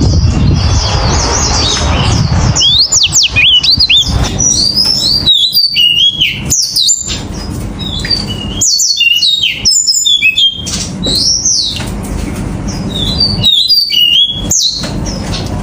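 A 金青 canary-type finch singing: quick, clear, high twittering phrases of sliding notes, broken by several short pauses. A low rumble underlies the first couple of seconds.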